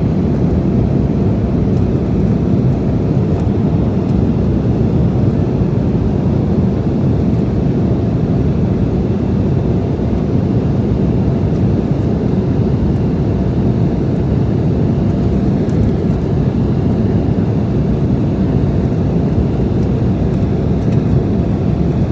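Steady, loud cabin noise of an Embraer E175LR in flight, its twin GE CF34-8E5 turbofans and airflow heard from inside the cabin behind the wing, mostly low-pitched with a faint steady tone above it.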